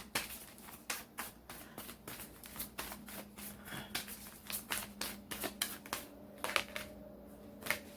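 A deck of reading cards shuffled by hand: a quick run of light card flicks and slaps, thinning out after about six seconds.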